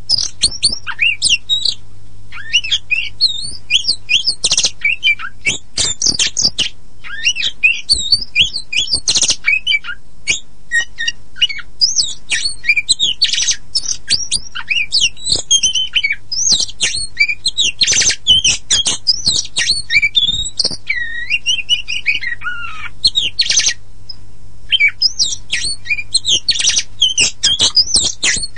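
Oriental magpie-robin (the black-and-white kacer poci form) singing a fast, continuous, varied song of rising and falling whistles, chirps and harsh notes, with a brief pause about 24 seconds in. A faint steady low hum lies underneath.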